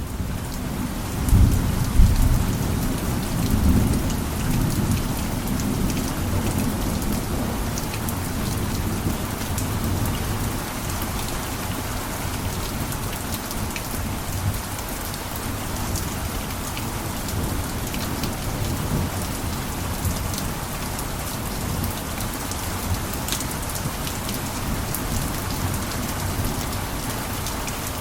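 Steady heavy rain on a roof, with many fine drop clicks through the hiss. A deep low rumble swells over the first few seconds and then fades into the rain.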